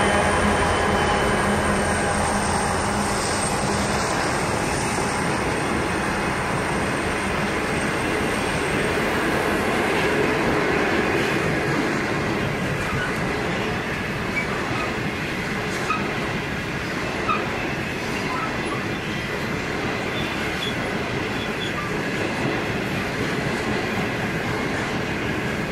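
A Pacific National 81 class diesel locomotive passing, its engine fading out over the first few seconds. Then a long train of loaded grain hopper wagons rolls by steadily, steel wheels on rail, with a few short sharp knocks later on.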